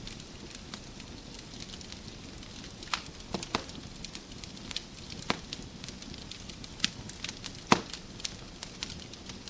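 Wood fire in a fireplace crackling, with a steady low rush of flames under scattered sharp pops and snaps; the loudest pop comes about three-quarters of the way through.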